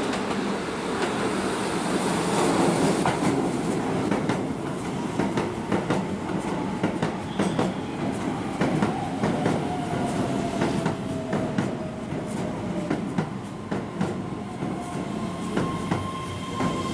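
Keihan electric commuter train pulling into the platform: wheels clacking over rail joints under a steady rumble, with a motor whine that slowly falls in pitch as the train brakes, and a steady high squeal starting near the end.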